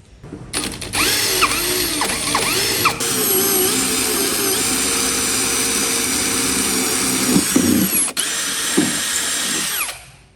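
Handheld power tool running continuously at speed for about nine seconds, its pitch wavering slightly. It drops out for a moment about eight seconds in, then stops.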